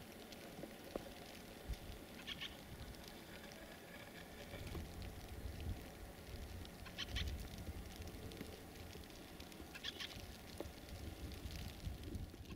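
A train running, heard from on board: a faint low rumble that grows a few seconds in, with scattered clicks and three short high squeaks.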